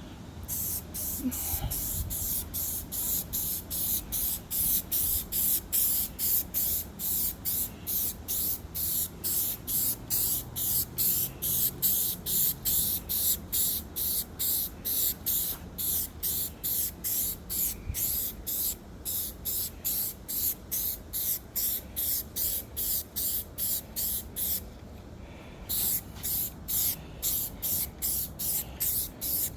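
Aerosol spray paint can spraying a finish coat in short, quick bursts of hiss, about two a second, with a brief pause about 25 seconds in.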